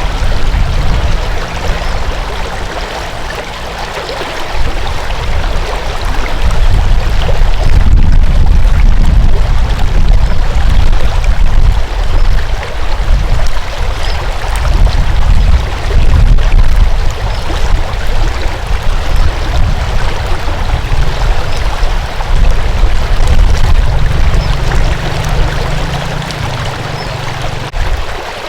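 Water flowing in a stream, a continuous rushing with a heavy low rumble that swells and fades.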